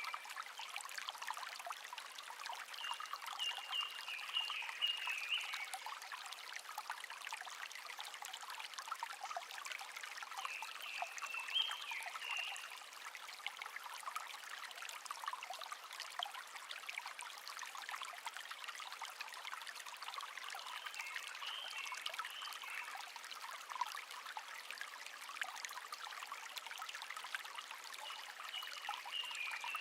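A shallow brook babbling and trickling steadily. A songbird sings a short warbled phrase four times, roughly every eight or nine seconds.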